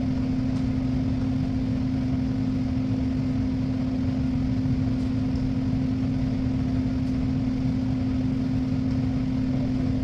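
Steady machine hum: one constant low tone over a low rumble, with a few faint small clicks.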